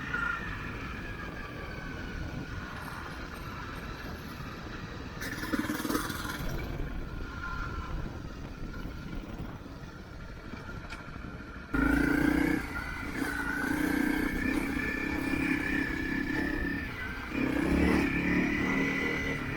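Motorcycle engine running while the bike is ridden, with steady whining tones over road and wind noise. The engine note swells about five seconds in, then jumps sharply louder about twelve seconds in and stays there, as the throttle opens.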